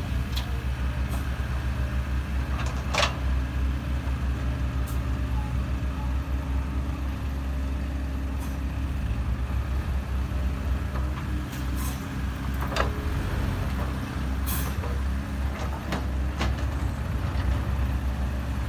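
Heavy diesel engines of an excavator and a dump truck running steadily at close range, with a few short, sharp knocks and hisses from the working machines.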